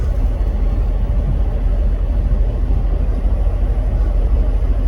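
Steady low rumble with no distinct events in it.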